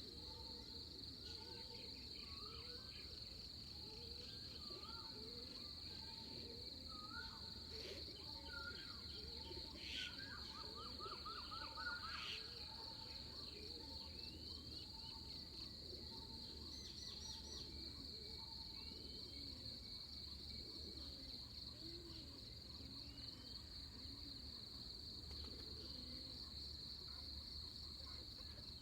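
Pre-dawn ambience of insects making a steady high trill, with birds calling over it: a short upswept call repeated about once a second, scattered chirps, and a quick rattling series about eleven seconds in.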